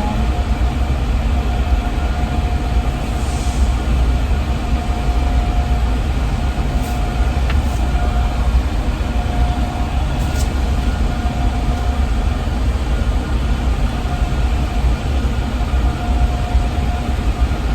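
Steady low rumble and hum of a car idling, heard from inside the cabin, with a faint steady tone running through it.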